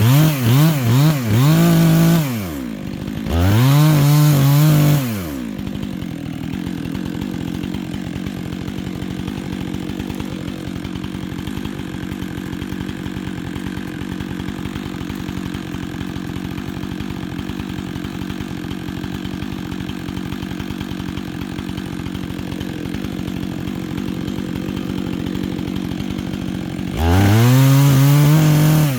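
Chainsaw engine blipped up and down a few times, then revved high for about two seconds, then idling steadily for about twenty seconds before revving high again near the end.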